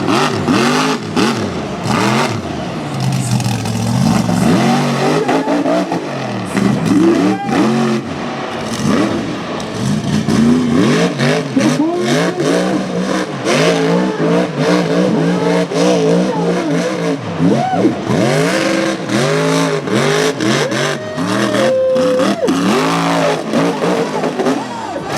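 Mega truck engine revving hard over and over, its pitch surging up and down with the throttle, with scattered knocks and bangs. A short steady tone sounds about twenty-one seconds in.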